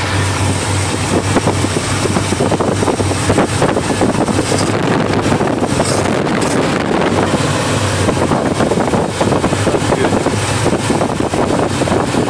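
Bored-out 350 Chevy small-block V8 in a 1980 Chevy truck, idling steadily with rapid even firing pulses. It has a relatively mild RV-type cam, and the idle is a little low by the owner's account.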